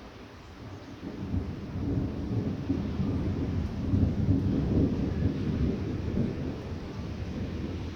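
A long rumble of thunder swells about a second in, peaks midway and slowly eases off, over a steady hiss of light rain.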